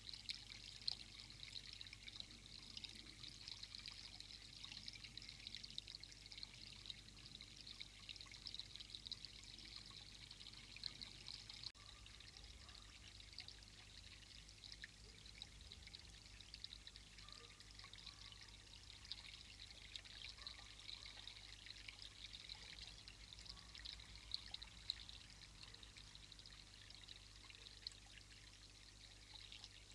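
Faint, steady rush of running water, with a fine crackly texture and a few small ticks.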